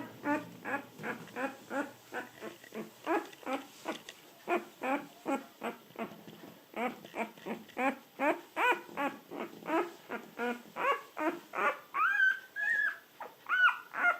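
Three-day-old American Akita puppy crying in a rapid run of short squeaks, about three a second, each rising in pitch; near the end they turn into longer, drawn-out whines.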